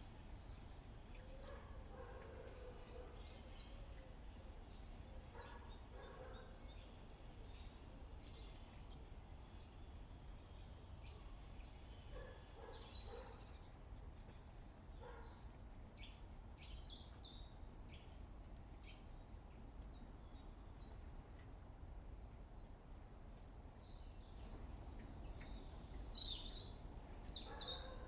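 Small garden birds chirping and calling in short scattered notes, busier and louder over the last few seconds, over a steady low background rumble.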